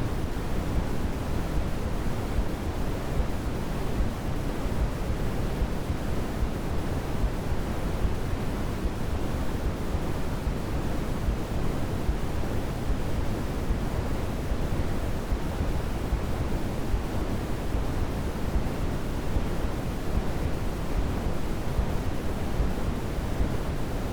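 Steady white-noise sleep sound: a constant, even hiss that is heavier in the low end and does not change.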